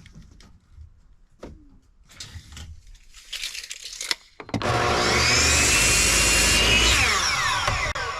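Electric power saw cutting 2x3 lumber. About four and a half seconds in, the motor starts with a rising whine, runs loudly through the cut for about two and a half seconds, then winds down with a falling whine near the end. Before it there are light knocks and rubbing of boards being handled.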